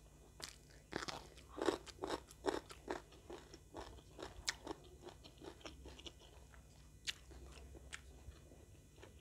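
Close-up chewing of a mouthful with crisp crunches, most frequent in the first few seconds and fainter after that.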